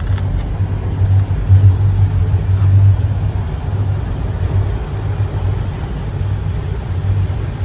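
Subway train running, a loud steady low rumble heard from inside the car.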